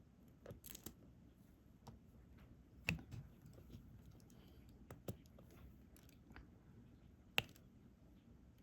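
Faint, scattered clicks and taps of diamond-painting drills being picked up with a drill pen and pressed onto the adhesive canvas, about half a dozen in all, the sharpest about 3 seconds and 7.5 seconds in.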